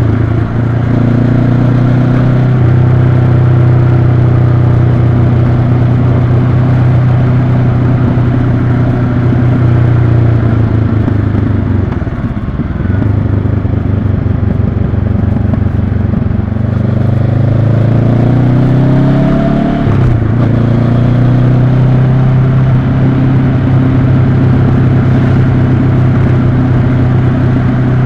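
Honda CB500X parallel-twin engine running as the motorcycle is ridden, a steady drone for the first ten seconds or so, easing off and dropping in pitch around twelve seconds in, then rising in pitch again, with a brief break about twenty seconds in before settling back into a steady drone.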